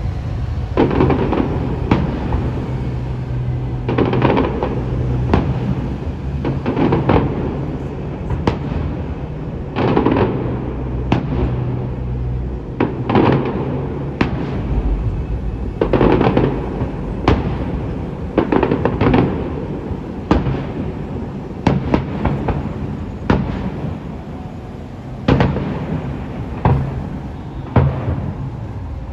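Fireworks display: aerial shells bursting every second or two, with a steady low hum underneath.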